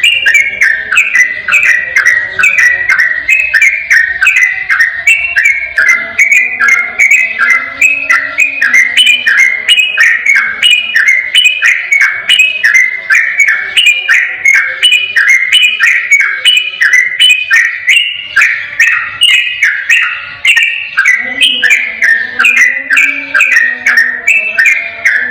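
Yellow-vented bulbul singing its fast, unbroken 'ropel' song: a continuous run of clear whistled notes, several a second, with a fainter lower wavering sound underneath.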